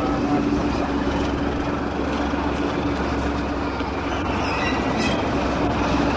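Steam train hauled by the GER N7 0-6-2T tank locomotive running along the line: a steady rail-running noise with a constant low hum.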